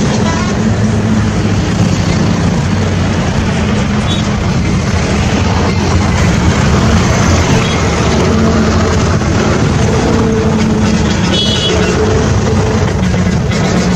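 Train running with a steady, loud rumble.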